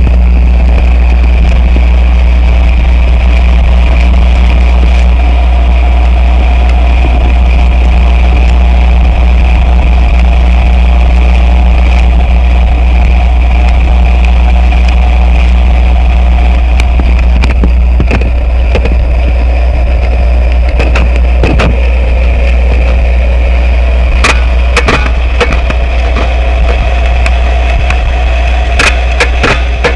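Loud experimental noise music: a dense, steady low rumbling drone with sustained hum and hiss layered above it. Scattered crackling clicks come in over the second half.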